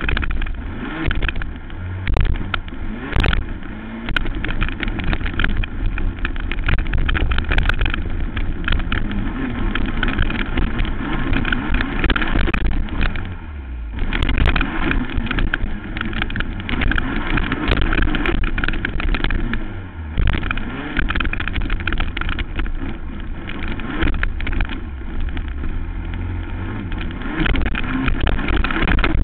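Racing quad (ATV) engine revving hard through a motocross lap, with many sharp knocks. The engine drops off briefly twice before picking up again.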